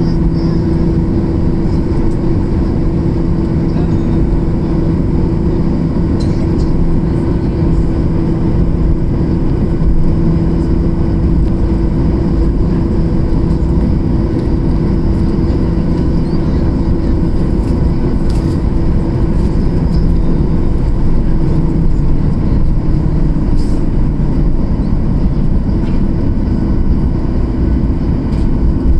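Boeing 737-800's CFM56-7B jet engines running at a steady, even power, heard inside the passenger cabin as a constant rush with a steady low hum.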